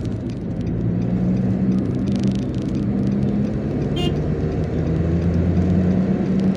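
Engine hum and road noise heard from inside a car as it accelerates out to overtake a loaded truck, the low engine notes growing louder in the second half. A single sharp click about four seconds in.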